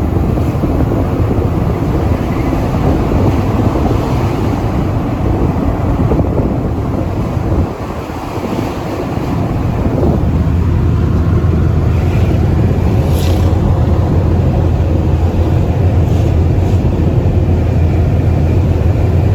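Vehicle driving along a road, with wind buffeting the microphone and engine and road noise underneath; about ten seconds in, a steadier low engine hum takes over.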